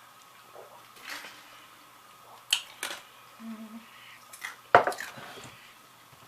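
A few sharp clicks and knocks of tableware being handled, the loudest nearly five seconds in.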